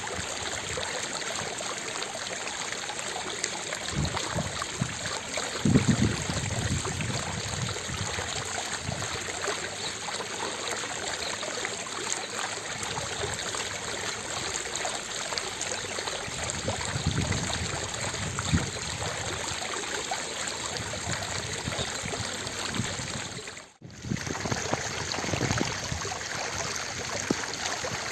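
Outdoor fountain water splashing and falling steadily into its basin, a continuous even rush. It dips briefly about three-quarters of the way through.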